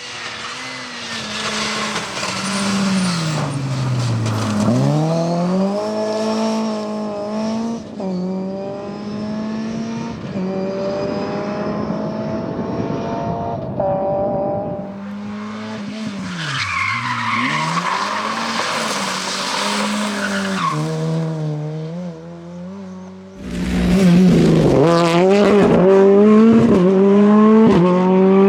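Rally car engine revving hard and dropping in pitch on lifts and gear changes through a corner, with a spell of tyres sliding and hissing on the surface midway. The car gets much louder in the last few seconds, passing close while the engine climbs again.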